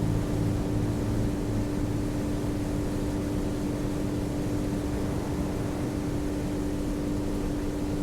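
Motorboat running steadily underway: a constant engine drone over an even rush of wind and water noise.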